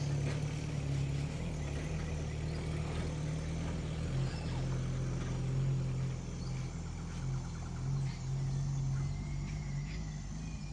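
Car engine running at a steady speed, a low drone that wavers slightly, with scattered light knocks and rattles.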